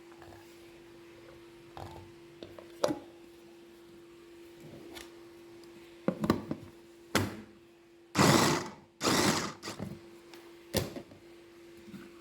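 Kitchen items being handled during food preparation: scattered clicks and knocks, then two loud rasping noises of about half a second each, about eight and nine seconds in, over a steady low hum.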